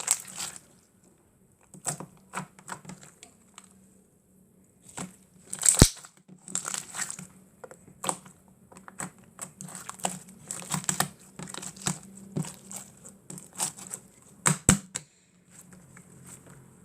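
Slime being squished, stretched and folded by hand, giving irregular crackling pops and clicks. The clicks stop shortly before the end.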